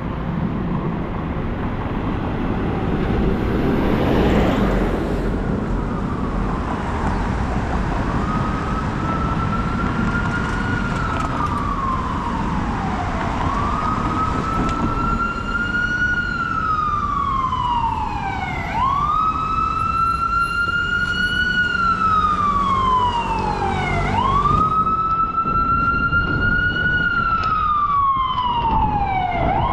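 An emergency vehicle's siren wailing: each cycle rises quickly and falls slowly, about every five and a half seconds. It starts faint about a quarter of the way in and grows louder, over steady street traffic noise.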